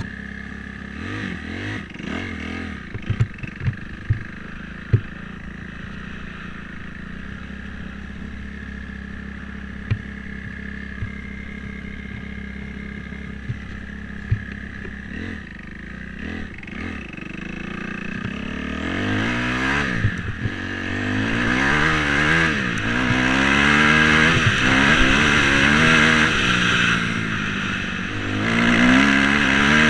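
Dirt bike engine running at a low steady idle, with a few sharp clicks and knocks in the first few seconds. From about two-thirds in, the engine revs up and down repeatedly and grows louder.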